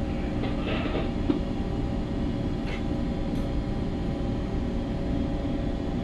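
Steady low rumble and hum of a bulk carrier's engine and machinery, with several constant tones over it.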